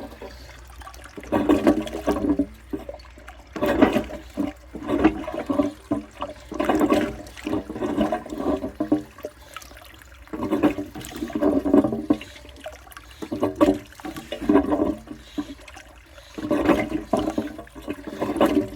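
W & J Lawley '402' cast iron toilet cistern being flushed again and again, its water surging and gurgling in repeated short bursts with pauses between. The cistern is failing to start a proper flush.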